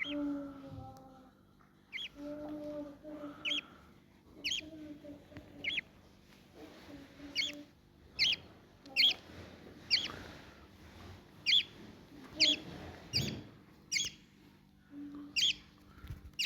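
Lovebird giving repeated short, sharp, high chirps, one every second or so.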